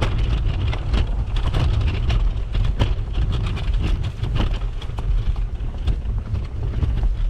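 Wind buffeting the microphone in a steady low rumble, with irregular crunching footsteps in snow a few times a second.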